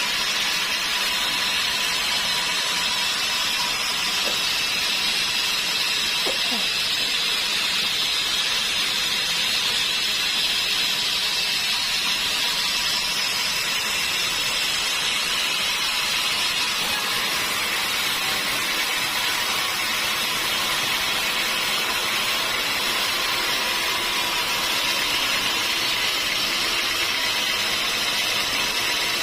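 Sawmill machinery running steadily: an even, high hiss with a thin steady whine underneath, unbroken throughout.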